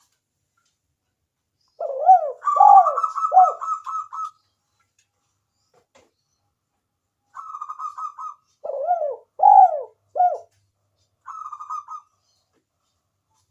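Spotted dove (tekukur) cooing in three bouts, each a quick rolling run of notes mixed with deeper arched coos.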